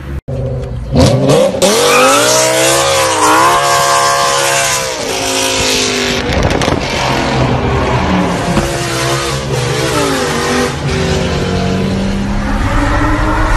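A car engine with a loud exhaust revving: its pitch climbs and falls several times, with a few sharp pops about a second in.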